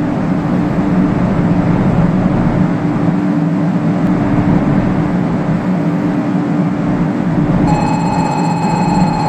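Steady rumble and rush of the Hello Kitty Shinkansen, a JR West 500 series train, running, with a low hum throughout. A steady high tone joins near the end.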